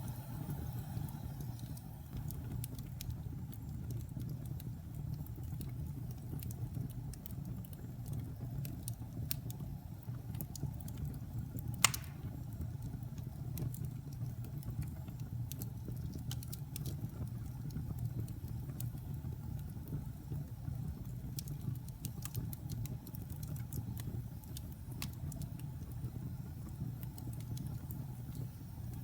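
Wood fire burning in a fireplace: a steady low roar with scattered small crackles, and one loud sharp pop about twelve seconds in.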